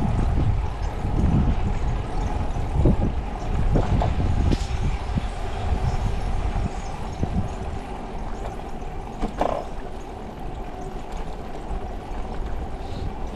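Wind buffeting the microphone and road rumble while riding a bicycle, with a faint steady hum underneath and a few short knocks, one about two-thirds of the way through.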